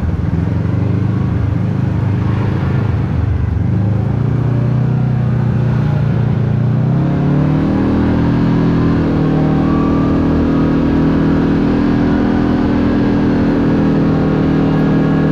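Side-by-side UTV engine running under way; its pitch climbs about seven seconds in and then holds steady at the higher note.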